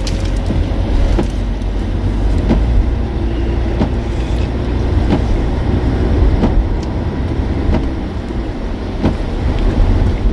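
Steady low rumble of road noise inside a moving car's cabin, with faint knocks about once a second.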